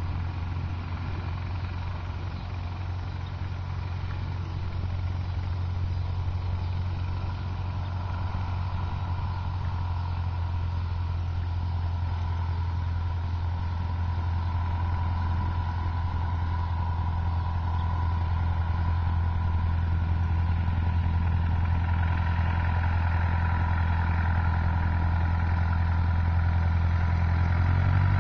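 Cessna 150's four-cylinder Continental O-200 engine and propeller droning steadily, with a deep hum, growing gradually louder.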